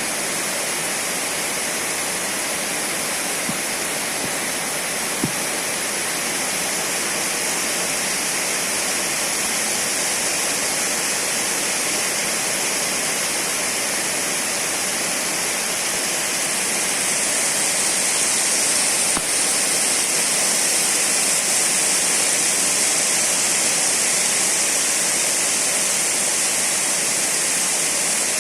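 Heavy rain pouring steadily, a dense even hiss that grows a little louder a little past halfway.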